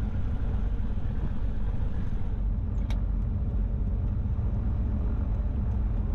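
Steady low rumble of a light aircraft's engines idling, heard from inside the cockpit. A single sharp click about three seconds in.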